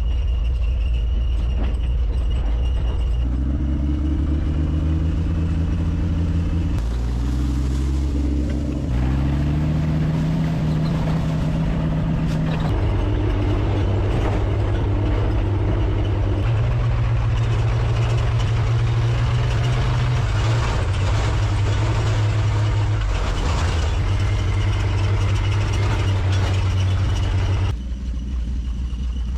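1955 Willys station wagon's engine running, its low drone shifting up and down in pitch every few seconds as it is driven, and the sound changing abruptly near the end.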